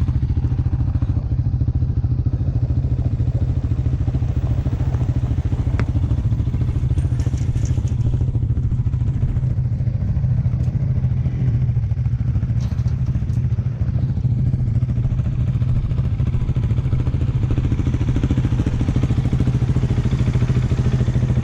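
Single-cylinder dirt bike engine running steadily at an even speed while riding.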